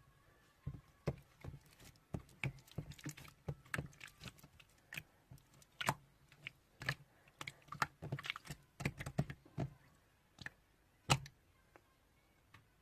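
Irregular light taps and clicks, several a second, like typing or tapping on a hard surface, pausing near the end.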